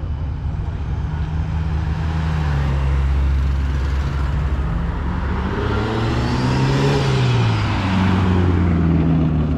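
Car engine running loud and close, its note rising about two-thirds of the way in and then falling again.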